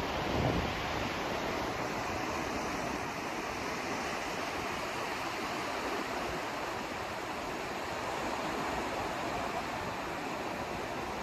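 Steady, even rushing noise of a white-noise sleep track, with no tones, rhythm or breaks.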